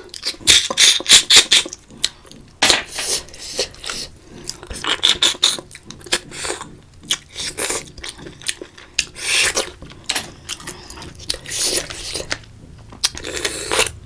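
Close-miked eating of spicy water snails (ghungi): a run of short, hissy sucking slurps as the meat is drawn out of the shells, several in quick succession with gaps between them.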